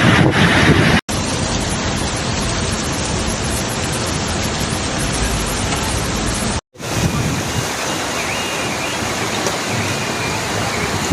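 Steady rushing noise of floodwater and heavy rain. It comes in three short clips joined by abrupt cuts, about a second in and again about two-thirds of the way through.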